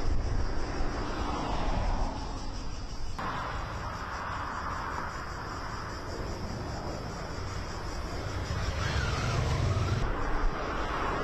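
Outdoor background noise with a low rumble. It changes abruptly about three seconds in and again near the end.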